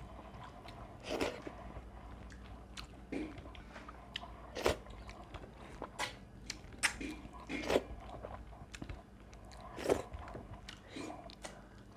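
A person eating close to the microphone: chewing with a string of separate crisp crunches, roughly one every second.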